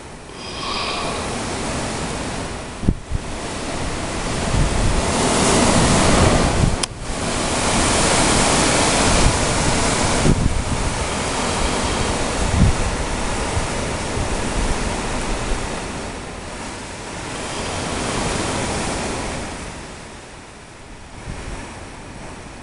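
Snowstorm wind blowing hard in gusts that swell and ease over several seconds, buffeting the microphone, with a few sharp knocks.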